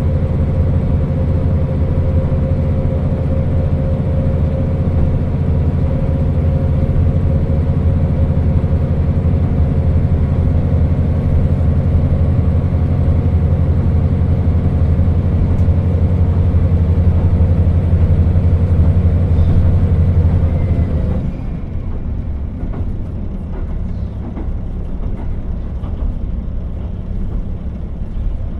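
KiHa 40 diesel railcar under way, its diesel engine pulling at a steady note over the rumble of the wheels on the rails. About three-quarters of the way through the engine note cuts off and the car runs on more quietly, coasting with only wheel and rail noise and light clicks.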